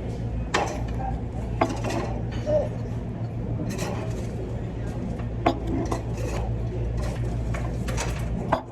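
Cutlery clinking and scraping against plates, with several short sharp clinks spread through, over a steady low hum of a busy dining room.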